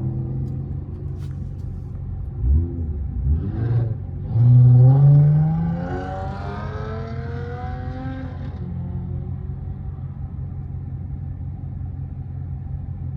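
Dodge R/T's 5.7-litre Hemi V8 doing a launch-control launch: a couple of short surges, then the revs climb hard for about two seconds and keep rising through the next gear. About eight and a half seconds in it drops back to a steady cruising drone.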